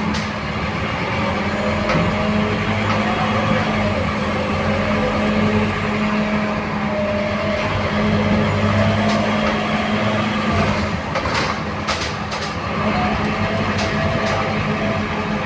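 Scania K230UB city bus's diesel engine running under way, heard from inside the bus: a steady low drone with a wavering whine above it. A short cluster of sharp rattling clicks comes about two-thirds of the way through.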